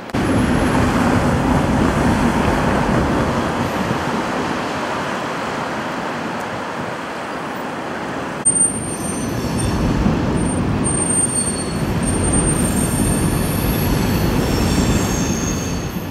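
A train running past with a heavy, steady rumble. From about halfway, several high-pitched wheel squeals join it and grow stronger near the end.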